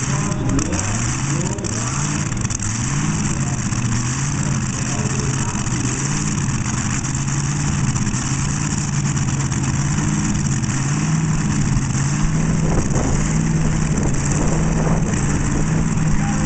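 Nostalgia drag car engine running on open headers at a cackle fest: a loud, rough-firing cackle whose pitch swells up and down in slow waves as the throttle is worked.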